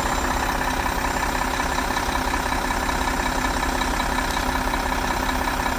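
A Mack 400 hp six-cylinder diesel engine of a concrete pump truck, idling steadily.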